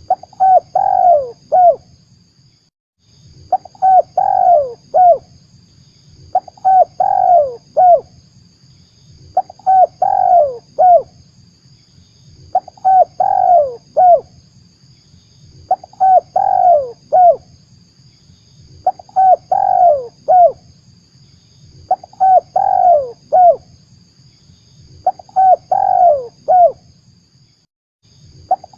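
Spotted dove (tekukur) cooing its song phrase over and over, about every three seconds, each phrase a short run of coos. It is a lure call for trapping doves, with a faint steady high whine behind it.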